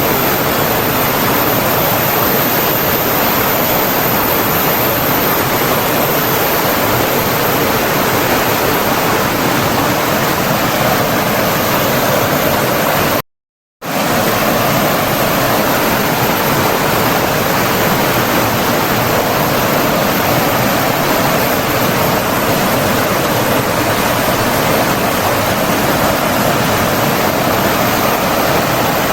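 Flowing water rushing steadily, a dense even roar like a stream or waterfall, cut off by a brief half-second gap of silence about thirteen seconds in.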